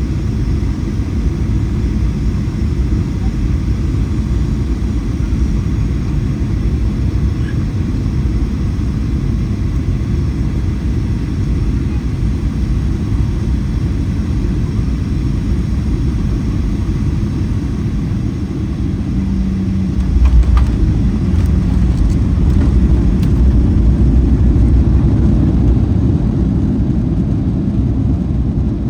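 Cabin noise of a Boeing 737-800 on final approach: a steady low rumble of airflow and engines. About 20 seconds in it jumps to a louder rumble with a few knocks as the main wheels touch down and roll on the runway, and it stays louder for several seconds.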